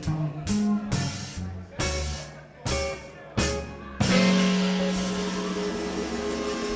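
Live swing band closing out a song: a run of short stabbed hits about a second apart, then a loud held final chord that starts about four seconds in.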